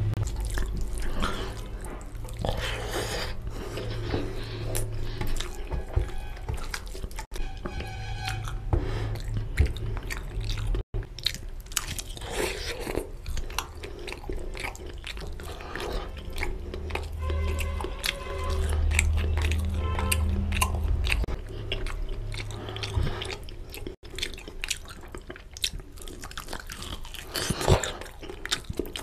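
Close-miked wet chewing and lip smacking of mouthfuls of curry and rice, with squelches from a hand mixing oily rice and curry on a steel plate and bites into a curried chicken leg.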